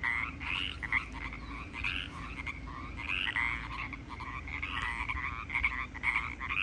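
A chorus of Pacific chorus frogs: many frogs calling at once in dense, overlapping croaks without a break.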